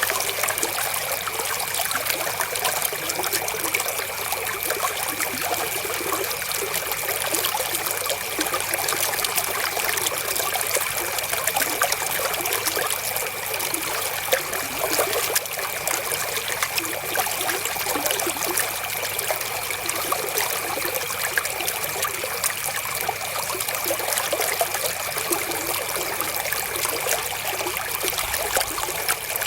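Flowing river water, a steady trickling rush without pauses, with a faint steady high tone underneath.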